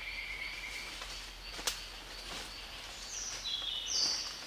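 Forest insects droning: several steady, high buzzing tones that overlap and shift in pitch in steps, with one sharp click a little under two seconds in.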